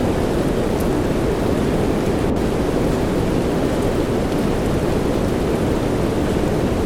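Steady soft rain, heard as a dense, even, low-pitched hiss with a deep rumble beneath it and a few faint high ticks of drops.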